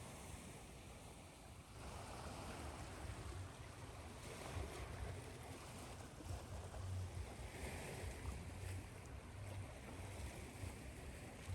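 Ocean waves washing in slow swells over a steady hiss of white noise, with a constant low rumble underneath.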